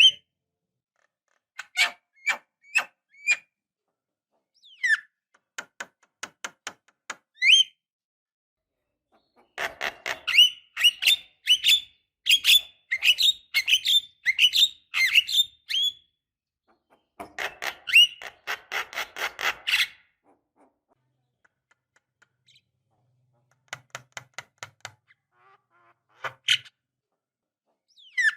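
Javan myna (jalak kebo) calling in bouts of rapid clicking, chattering notes with a few short rising whistles, separated by silent gaps. The longest, densest run of notes comes about ten to sixteen seconds in.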